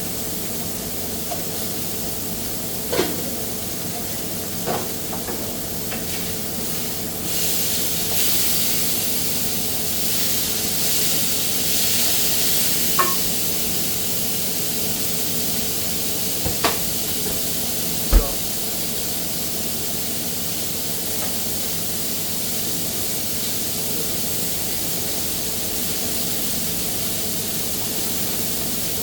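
Steady hiss of falling rain over a low machine hum, with a few sharp knocks. The hiss grows stronger for several seconds around the middle.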